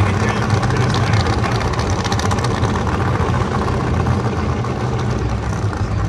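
A drag-race car's engine running steadily at low revs, loud, with a rapid pulsing exhaust.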